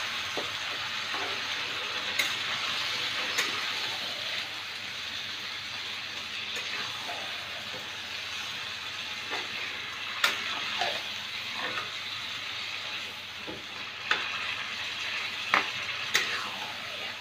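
Marinated mutton with onions and tomatoes sizzling in hot oil in a kadai as it is kosha-fried, a steady hiss. A flat steel spatula stirring it scrapes and knocks against the pan several times.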